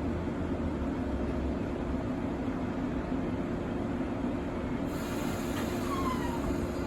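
Electric train at a station platform humming steadily. A few faint, brief squeals come about five to six seconds in.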